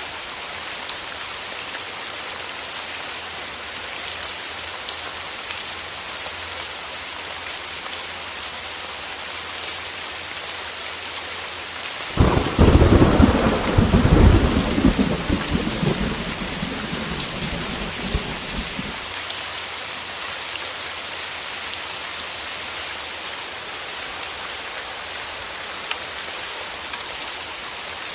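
Heavy rain pattering steadily on a window, with a loud clap of thunder about twelve seconds in that rumbles and fades away over the next several seconds.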